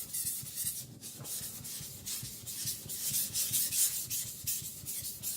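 Blade face of a Victorinox Chinese cleaver ground back and forth on a wet whetstone in quick, even strokes, thinning the blade.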